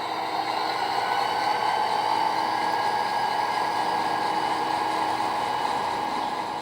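Sound-equipped HO scale model diesel locomotive pulling forward, its engine sound running steadily from the small onboard speaker.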